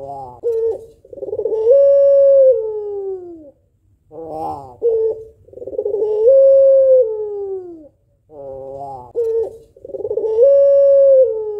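White female Barbary dove of the long-voiced puter pelung breed cooing: three calls about four seconds apart, each a quick stuttering run of notes followed by one long drawn-out coo that falls away at the end.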